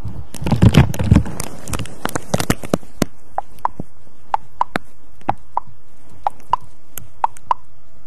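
Close-microphone ASMR trigger sounds. There is a burst of handling rustle and bumps in the first second and a half, then a run of light, sharp taps or clicks, about two a second and unevenly spaced.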